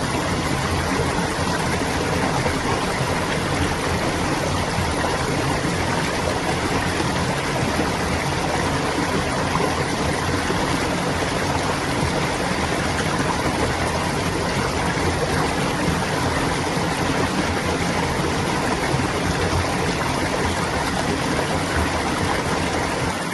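Clear stream water babbling as it flows, a steady even rush with no breaks.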